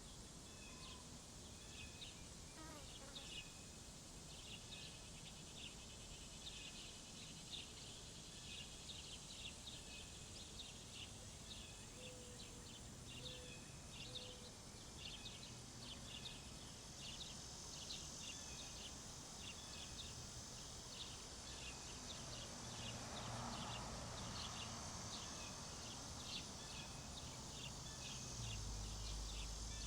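Small birds at a feeder chirping in quick, short, irregular calls, over a steady high hiss of summer insects and a low background rumble that grows louder near the end.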